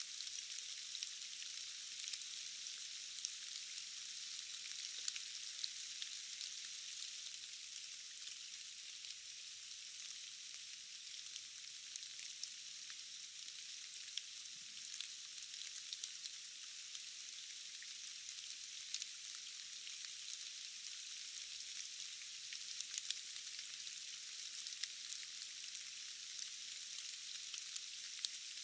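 Steady rain falling, a dense even hiss of drops with many small sharp ticks of individual drops hitting. The sound is thin and all treble, with no low rumble.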